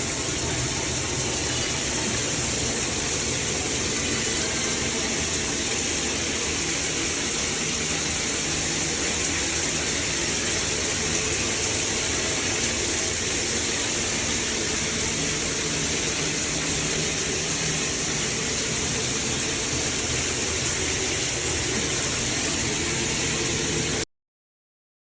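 Shower head spraying water: a loud, steady hiss that cuts off suddenly near the end.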